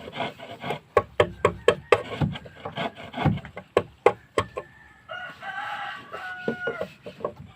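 A hand tool worked on wood in quick repeated rasping strokes, about three a second, stopping about four and a half seconds in. A rooster then crows, with a second shorter crow right after.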